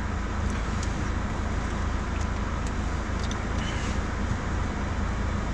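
Steady low rumble of a car heard from inside its cabin, with a few faint ticks.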